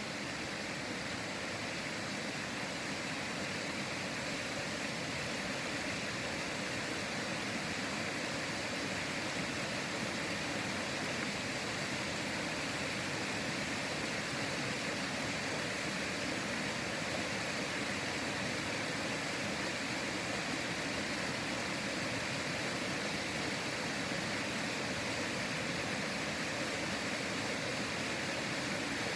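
River water flowing and rushing steadily, an even wash of water noise that does not change.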